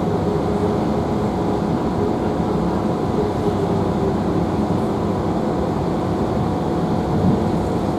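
Steady running noise heard inside a GWR Class 165 diesel multiple unit under way: an even engine drone and rumble with a few faint steady tones.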